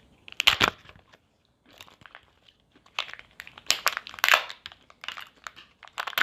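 Foil wrapper of a Kinder Joy egg crinkling as it is handled and opened, in several short spells with quiet gaps between.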